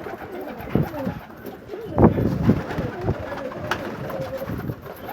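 Domestic pigeons cooing, several birds overlapping in repeated low, falling calls, the loudest about two seconds in.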